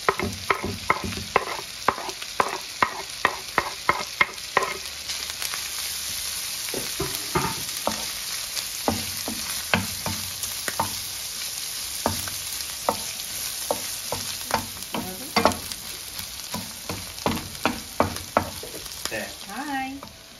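Chopped chicken sizzling in a frying pan while a wooden spoon scrapes it off a wooden chopping board and stirs it, knocking against board and pan. The knocks come quickly and evenly for the first four seconds, then at random.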